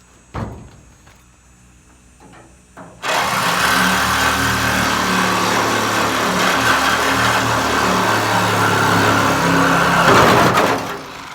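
A power tool cutting through the sheet steel of a pickup truck bed: it starts abruptly about three seconds in as a loud, steady hissing noise over a low hum and stops shortly before the end.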